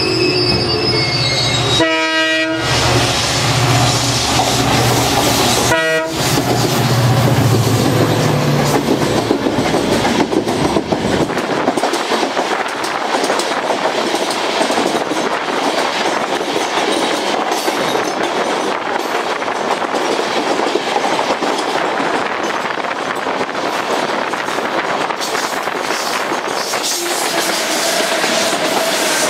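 Two trains crossing at speed, heard from an open carriage door. A train horn sounds twice, about two and six seconds in, and the passing locomotive's heavy low rumble fades after about ten seconds. A long, even rush of the other train's coaches going by close alongside follows, with wheel clatter.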